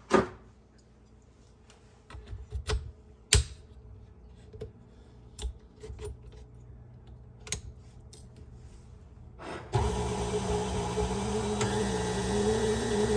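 Scattered clicks and knocks, two of them sharp, as a spiralizer attachment is fitted with its finest blade and a yellow potato. About ten seconds in, a KitchenAid stand mixer's motor starts suddenly and runs steadily with a slightly wavering hum, driving the spiralizer through the potato.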